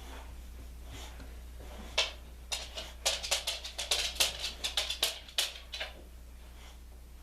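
A quick, irregular run of about fifteen sharp taps or clicks, starting about two seconds in and lasting nearly four seconds, over a low steady hum.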